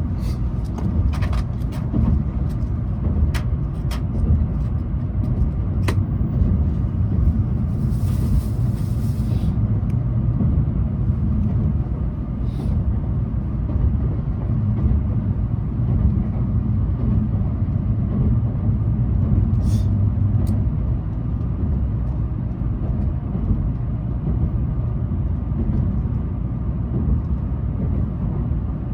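Tokaido Shinkansen train running, heard from inside the passenger cabin as a steady low rumble. There are a few light clicks in the first several seconds and a brief hiss about eight seconds in.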